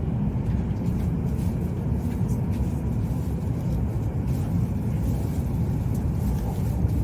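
Steady low rumble of an E7-series Shinkansen as heard inside the passenger car, even and unchanging, with faint ticks above it.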